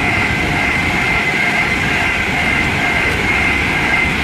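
Class 390 Pendolino electric train passing at speed on the main line: a steady loud rush and rumble of wheels on rail, with a high steady whine over it.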